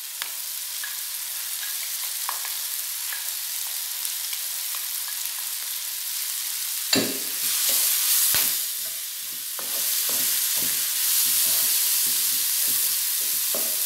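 Food frying in oil in an electric skillet, sizzling steadily. From about seven seconds in the sizzle gets louder, and a wooden spoon stirs and scrapes through the mix in quick strokes.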